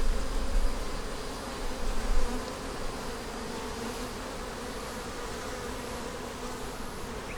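Steady buzzing hum of many honey bees around an opened Langstroth hive, with frames out for inspection.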